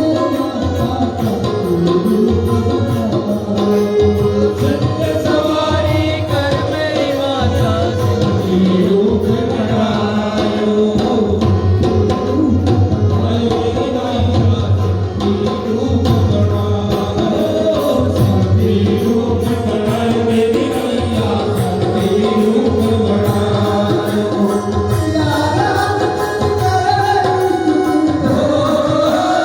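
Hindi devotional bhajan: voices singing a melody over tabla drumming.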